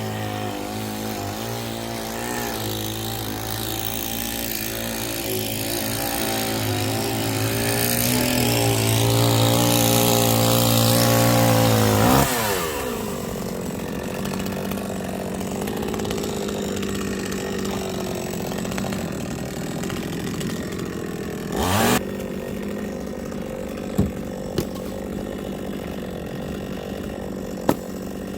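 Two-stroke chainsaw running at high revs, growing louder to a peak about twelve seconds in, then dropping sharply to idle. A short throttle blip comes near twenty-two seconds, with a few sharp clicks near the end.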